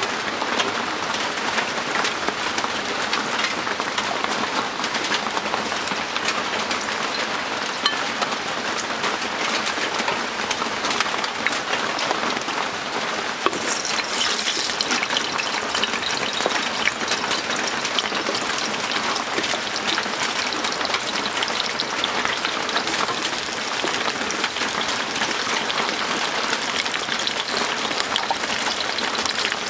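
Heavy rain pattering steadily on the roof, a dense even hiss full of tiny drop clicks.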